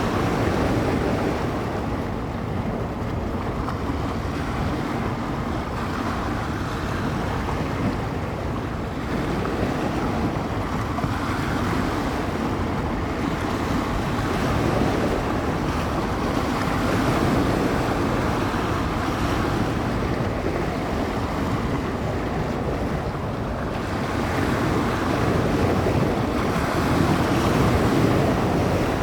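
Small bay waves washing onto the shore in a steady wash that swells and eases every few seconds, with wind buffeting the microphone.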